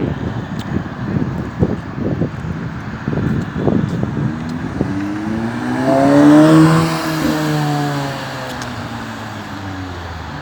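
A car drives past with its engine note rising, loudest about six to seven seconds in, then falling away as it goes. Before that, a few seconds of gusty low rumbling.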